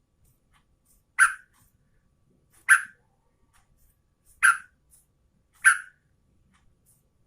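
Sooty-headed bulbul giving four short, harsh calls, spaced about a second and a half apart.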